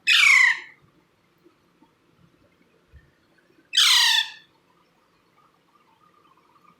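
Indian ringneck parrot chick giving two harsh squawks about four seconds apart. Each squawk lasts about half a second and falls in pitch.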